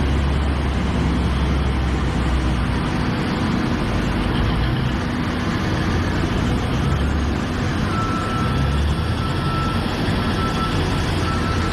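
Liebherr excavator engine running steadily with a deep hum. About two-thirds of the way in, a repeating single-pitch alarm beep starts.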